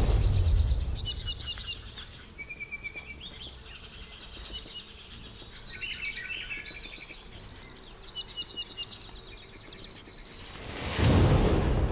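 Songbirds chirping, with short, rapid series of high chirps and trills repeating through a quiet outdoor ambience. A rushing whoosh fades out at the start and swells again near the end.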